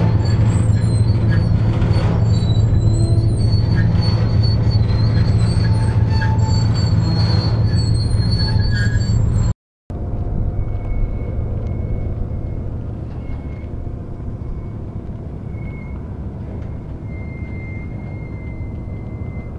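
Freight train of autorack cars rolling past on steel rail: a steady low rumble with wavering high-pitched wheel squeal. The sound cuts out briefly about ten seconds in and resumes quieter, with occasional squeals.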